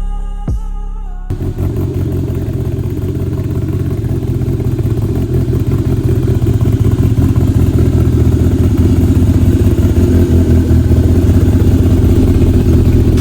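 Polaris RZR Pro R's four-cylinder engine running through a straight-through single-muffler 3-inch stainless slip-on exhaust, giving a deep, steady rumble that grows a little louder over several seconds.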